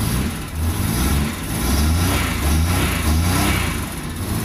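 Maruti 800's three-cylinder petrol engine running just after being started, its revs rising and falling several times.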